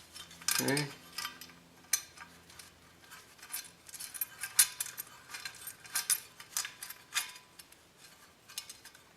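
Light metallic clicks and clinks at irregular intervals as a locknut is threaded by hand onto a Romex cable connector on an electrical box.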